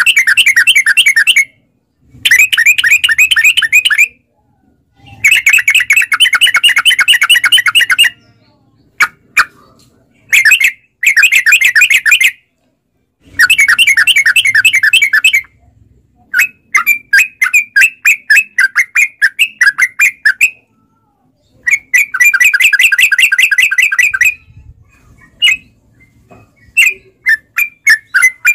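Yellow-vented bulbul (trucukan) song: long rolling runs of rapid, chattering notes, each lasting two to three seconds, broken by short pauses and scattered single notes. The song is loud and repeated over and over, the kind played to lure other trucuk birds into answering.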